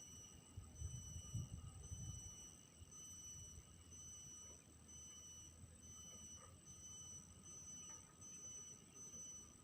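Faint, steady high-pitched chirping of crickets, pulsing evenly, with a brief low rumble in the first couple of seconds.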